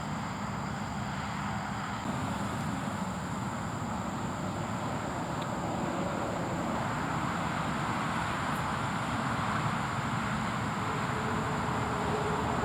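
Steady rumble of road traffic, growing a little louder after about six seconds as vehicles pass.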